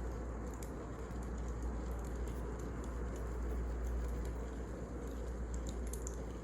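Wood fire burning, with a steady low rumble and scattered faint crackles and pops.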